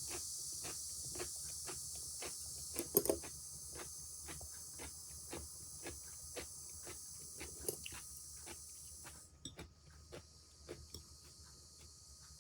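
High steady cicada drone, which drops sharply about nine seconds in and carries on faintly, with light taps about two a second over it and a short cluster of louder taps about three seconds in.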